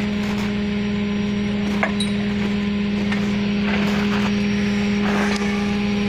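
Tow truck's engine running steadily at a constant pitch, with a few light metallic clinks over it.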